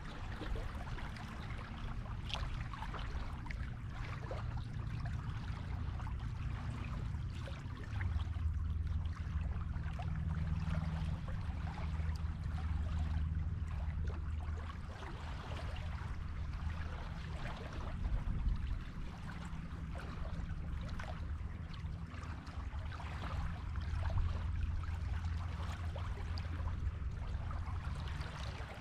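Ocean waves washing on a beach: a steady fizzing, crackling wash over a low rumble that swells about a quarter of the way in and again near the end.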